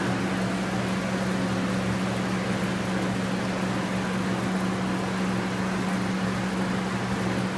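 Garb-el GHV-1000 hammermill garbage disposal with its 10 hp three-phase electric motor running steadily: a constant low hum under an even whir.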